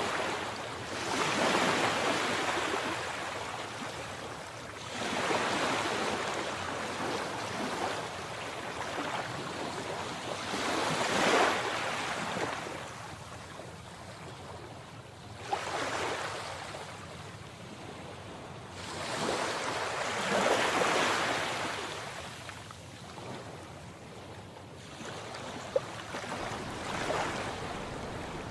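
Sea waves breaking and washing in, rising and falling in slow surges every four to six seconds over a steady hiss. There are two brief sharp ticks, one about halfway through and one near the end.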